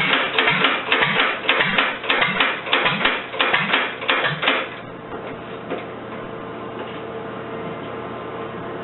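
International Harvester LA single-cylinder engine running with a regular clattering beat, about three firings a second, then cutting out about five seconds in, leaving a steady low hum.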